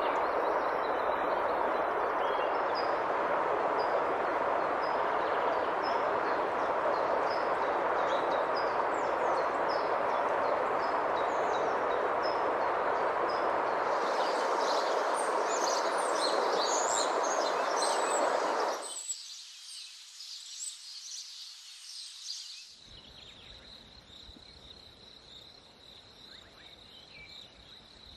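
A small forest stream rushing steadily over rocks and little cascades, with songbirds chirping high above the water. About two-thirds of the way through the water sound stops, leaving busy birdsong, and then a steady, high, thin insect trill with faint birds.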